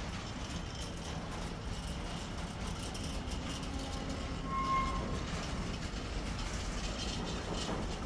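Freight train of intermodal container wagons rolling slowly past, a steady low rumble with a brief high squeal about halfway through and a few faint clicks near the end.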